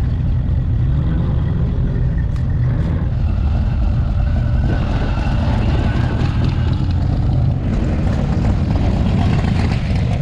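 Engines of American classic cars and trucks driving slowly past in a steady procession, a continuous deep engine sound with no break.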